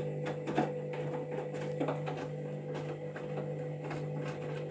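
Candy washing machine filling with water for its pre-wash: a steady hum with scattered irregular ticks as the water runs in.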